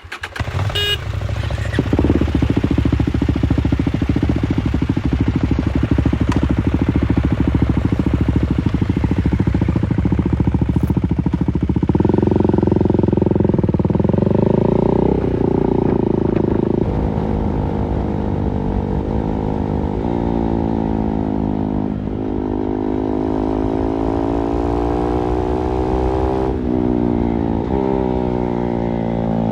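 KTM 390 Duke's single-cylinder engine idling steadily, then running at a higher pitch from about twelve seconds in before the bike pulls away and accelerates through the gears, the pitch climbing and dropping back at each upshift, four times.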